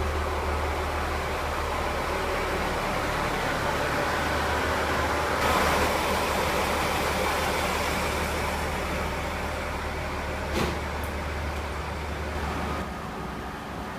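A steady low machine hum that cuts off suddenly near the end, with a louder rushing swell about five seconds in and a single sharp click a little after ten seconds.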